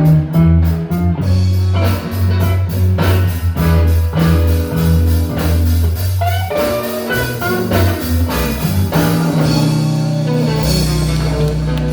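Live blues band playing an instrumental stretch: guitar over a bass line of deep, even notes and a drum kit keeping time. About nine seconds in the bass settles onto one held note under a cymbal wash.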